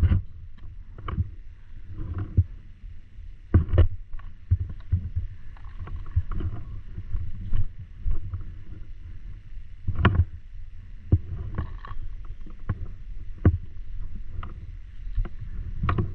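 Scattered sharp pops of paintball markers firing during a game, single shots several seconds apart, the loudest about three and a half seconds in, at ten seconds and near the end, over a steady low rumble.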